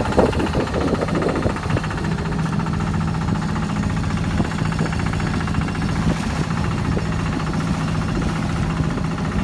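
Boat engine running at a steady pace, a constant low drone.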